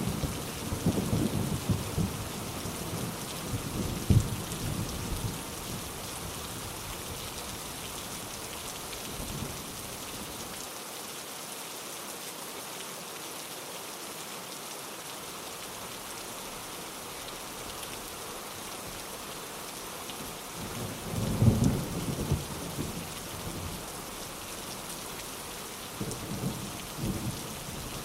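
Steady rain with rolling thunder: a rumble dies away over the first few seconds, a louder roll comes about three quarters of the way in, and a smaller one near the end.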